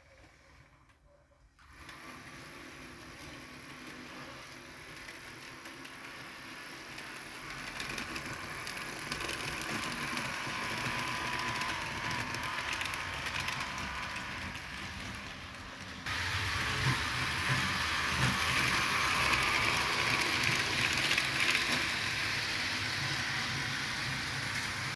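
Model train of diesel locomotives running along the track: a steady mechanical whirring and clatter that starts a couple of seconds in and grows louder as it nears, steps up sharply about two-thirds of the way through, and cuts off suddenly at the end.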